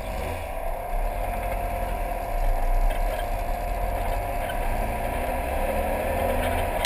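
Car engine running as the car moves off and drives along, over a steady low rumble; it gets somewhat louder about two and a half seconds in.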